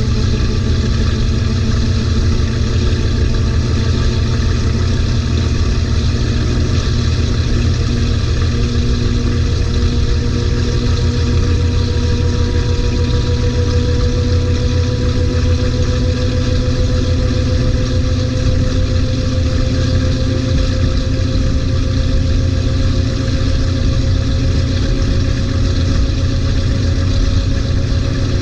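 LG 18 kg top-load washing machine running with a steady hum and a motor whine that rises slowly and evenly in pitch as the drum speeds up.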